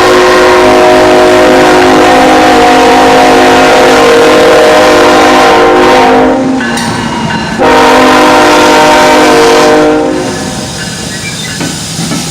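Union Pacific locomotive's multi-chime air horn blowing two long, very loud blasts, the first about six seconds long and the second about two and a half seconds, followed near the end by the quieter rumble of the passing train.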